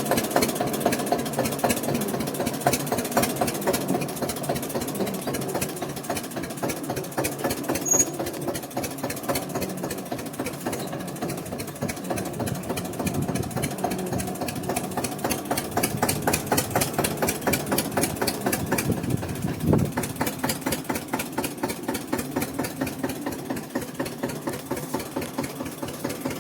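Eicher tractor's diesel engine idling, with a steady pulsing beat of its firing strokes.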